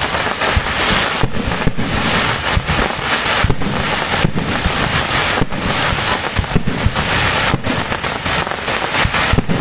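Fireworks going off without pause: a dense, continuous crackle of firecrackers with sharp single bangs about once or twice a second.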